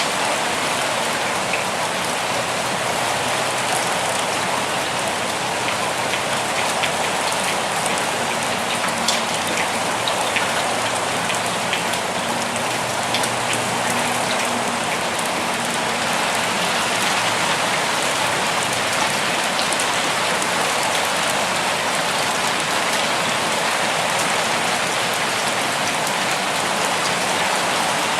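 Steady forest rain: a constant even hiss of falling rain with scattered individual drops ticking close by.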